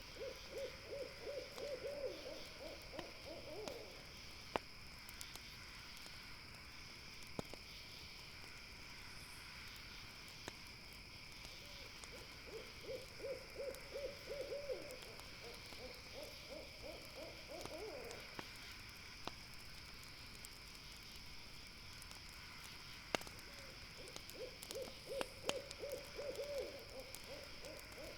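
An owl calling in quick runs of rapid hoots, three times, over a steady high drone of night insects. A few sharp pops from a campfire come in between.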